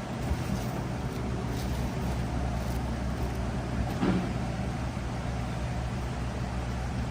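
A steady low mechanical drone, such as an engine or motor running in the background, with a faint short knock about four seconds in.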